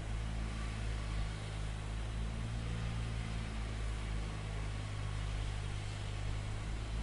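Machine engine running steadily: a constant low drone with steady hum tones under an even hiss.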